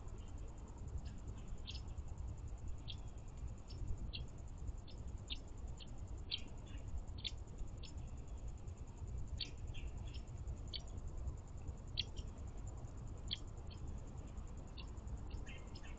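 Small songbirds giving short, high chip notes, many of them scattered irregularly, over a steady low rumble of background noise.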